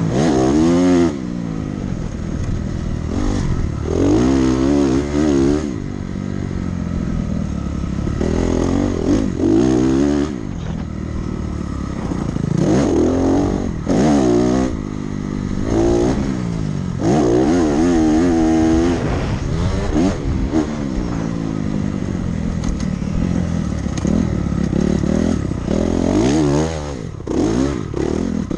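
Dirt bike engine being ridden hard around a motocross track, revving up and backing off over and over, its pitch climbing and dropping every second or two with throttle and gear changes.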